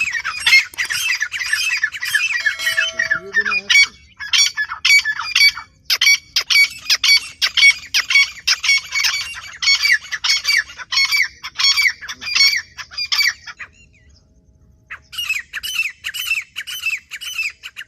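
Teetar (francolin) calling: a rapid, loud series of harsh repeated notes that breaks off briefly near the three-quarter mark, then starts again.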